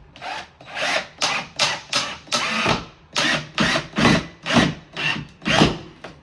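Rhythmic back-and-forth scraping on wood, about a dozen strokes at roughly two a second.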